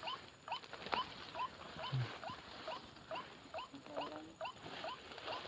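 A small animal's high, squeaky call: short chirps, each rising in pitch, repeating evenly about three times a second, with a few faint clicks from the undergrowth.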